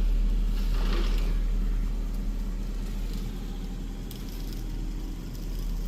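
An engine running steadily with a deep low rumble.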